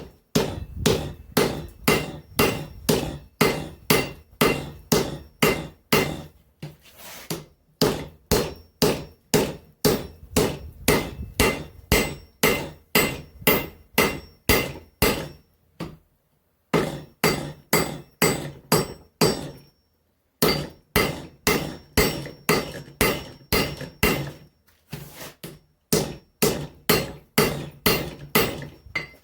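Hand hammer striking hot steel on an anvil, about two to three blows a second, with the anvil ringing after each blow: a forge weld being set on the first welding heat. The blows come in runs broken by a few short pauses.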